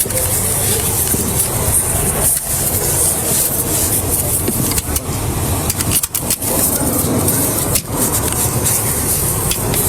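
Steady vehicle and road noise, a constant rushing hiss that briefly drops out a few times.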